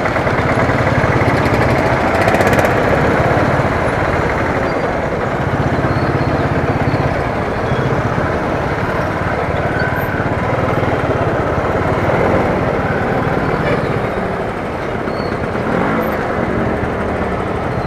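Riding noise from a Royal Enfield Thunderbird: its single-cylinder engine running steadily at road speed, with an even rush of wind and road noise over it.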